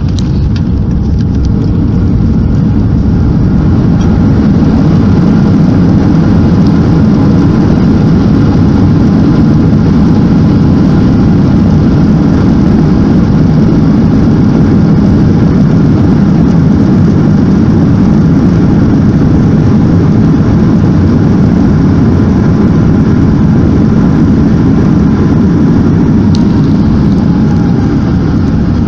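Loud, steady roar inside the cabin of a Boeing 737 MAX 8 as it lands: its CFM LEAP-1B engines and the rushing air during the landing roll. The roar builds over the first few seconds and eases slightly near the end.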